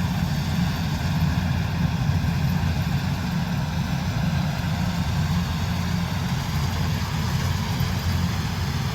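Combine harvester's diesel engine running steadily, a deep, even drone with no change in speed.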